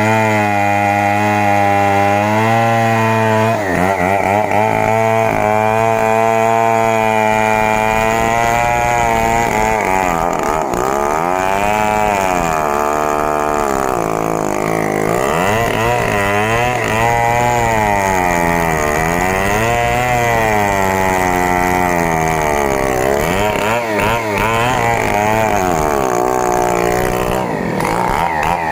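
Stihl 070 two-stroke chainsaw running at high revs and cutting timber. Its pitch holds steady at first, then sags and recovers again and again as the chain loads up in the wood.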